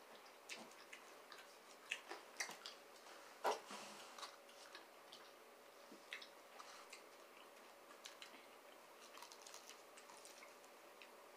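Close-miked eating sounds: scattered mouth clicks and chewing of fried chicken strips and broccoli, with one louder click about three and a half seconds in. A faint steady hum sits underneath from about four seconds in.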